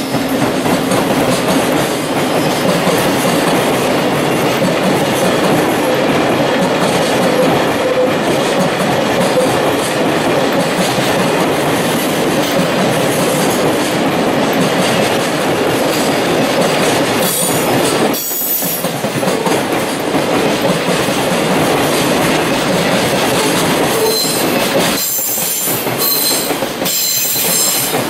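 Koki container flatcars of a freight train rolling past: a steady loud rumble of wheels on rail, with sharp clacks of wheels crossing rail joints, a few about two-thirds in and a quick run of them near the end.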